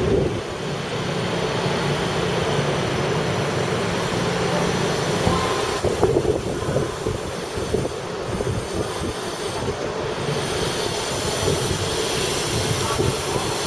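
Chinese high-speed train at a station platform giving off a steady rumble with a low hum; the hum stops about five and a half seconds in, and a brief clatter of knocks follows just after.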